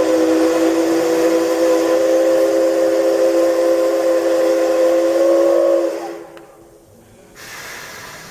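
Steam whistle of the C61 2 steam locomotive blowing one long blast of several tones sounding together, signalling departure; it cuts off about six seconds in. Near the end a softer hiss of escaping steam follows.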